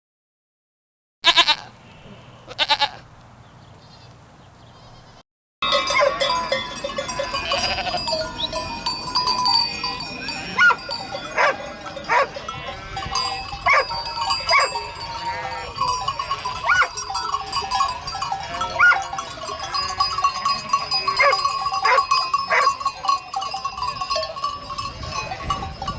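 A herd of livestock wearing bells: many bells clinking and ringing together, with animals bleating throughout. Two loud bleats sound near the start, after a moment of silence.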